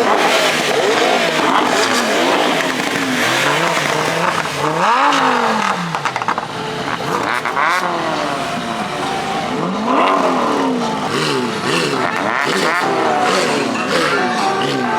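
High-performance car engines revving hard again and again, their pitch climbing and dropping sharply several times, with revs from more than one car overlapping.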